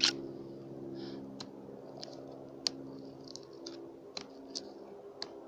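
Small, freshly lit campfire of birch bark and kindling crackling, with sharp irregular pops, the loudest right at the start, over a steady low hum.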